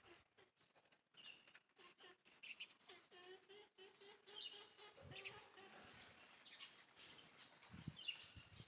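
Faint, repeated high chirping calls from small animals, with a lower held note lasting a few seconds in the middle and a few soft thumps.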